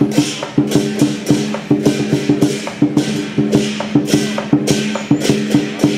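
Lion-dance percussion ensemble playing: a drum beaten in fast, dense strokes, with cymbal clashes about twice a second over a steady ringing gong tone.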